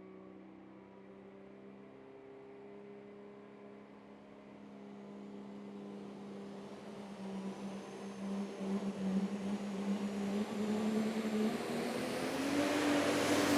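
Dodge super stock diesel pulling truck under load down the track, its engine growing steadily louder and stepping up in pitch as the throttle is worked in, with a thin high whine rising above it over the second half.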